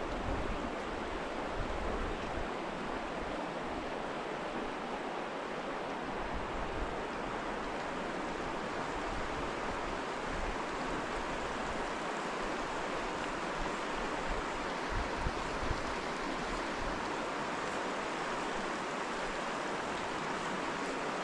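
Steady rush of river water flowing past, an even noise with no change through the stretch.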